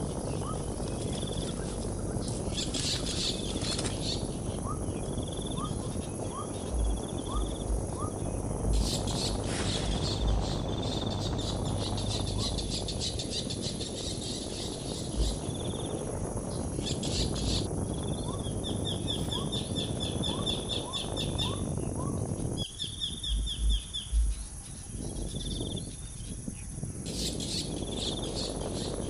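Small birds chirping over and over in the open, with buzzy insect-like trills, over a steady rustling background and a few low thumps.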